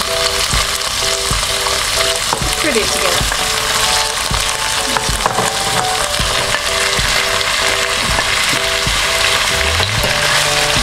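Chicken breast frying in oil and red curry paste in a non-stick wok: a steady sizzle, with a spatula scraping and knocking as pineapple chunks and tomatoes are pushed into the pan.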